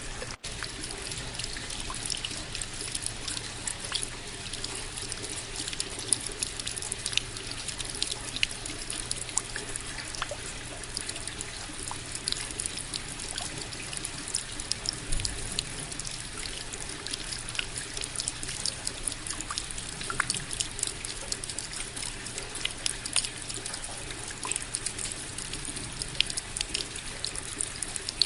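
Steady rain falling, with many separate drops striking close by as sharp little clicks over an even hiss. The sound cuts out for an instant just after the start.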